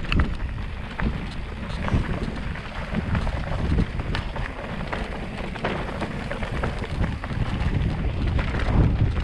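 Wind buffeting the microphone, a gusty low rumble with scattered short clicks and knocks through it.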